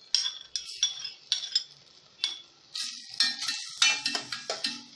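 Metal spoon clinking and scraping against a cooking pot while grated onion is stirred into melted butter: a string of sharp, irregular clinks with a ringing tone.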